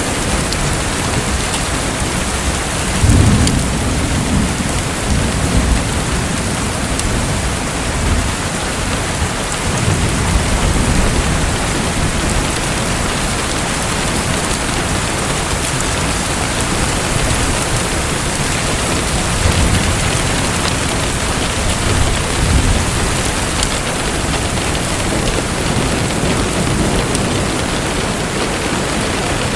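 Steady rushing water noise, like rain or a heavy stream, with several short low rumbles rising and fading through it.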